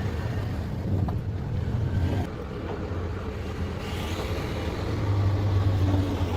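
A motor running with a steady low hum, swelling slightly in loudness about five seconds in.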